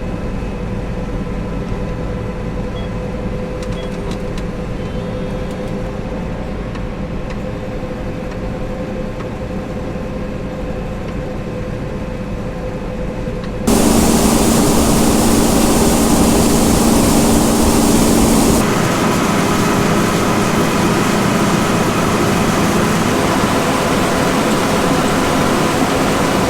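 John Deere 9770 STS combine harvester running steadily while harvesting wheat, with an even machine hum. About 14 seconds in the sound jumps abruptly louder and hissier, then eases a little about five seconds later.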